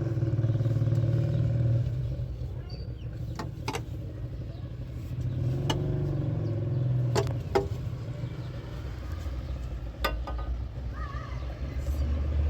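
A motor vehicle engine running, its low hum swelling twice, with a few sharp clicks and knocks.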